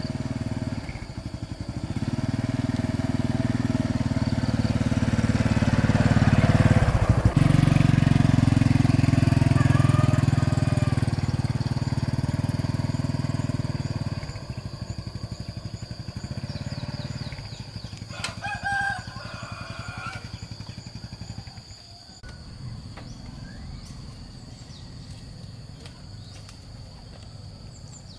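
Old diesel engine running steadily with an even firing beat, dropping to a quieter running about fourteen seconds in and fading further near the end. A rooster crows briefly about eighteen seconds in.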